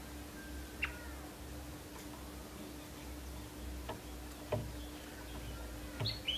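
Yorkshire canary in its cage making a few sparse sharp ticks and clicks, with a quick run of short high chirps starting near the end.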